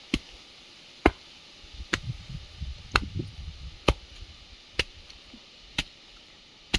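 Sharp knocks repeating evenly, about once a second, eight in all, with faint low rumbling between them partway through.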